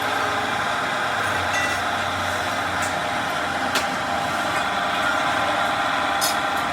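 Steady running of machinery, a dense even mechanical noise, with a sharp click about four seconds in and another near the end.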